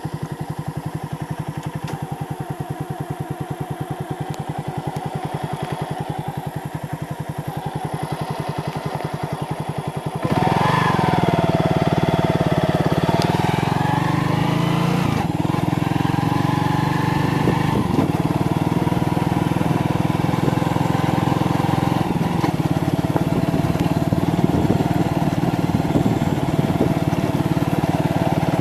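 Motorcycle engine idling with an even, quick pulse. About ten seconds in it gets louder and the bike pulls away, the engine pitch rising and dropping a couple of times as it speeds up, then running steadily.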